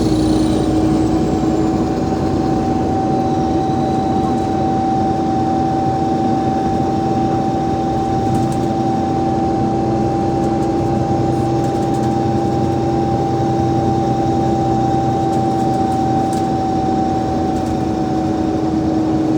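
Alexander Dennis Enviro500 MMC double-decker bus running steadily under way, its Cummins ISL diesel and ZF Ecolife automatic driveline giving a steady drone with a whine held at one pitch that sags slightly near the end.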